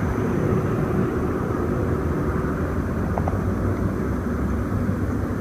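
Steady low background rumble of distant engines, with a faint click about three seconds in.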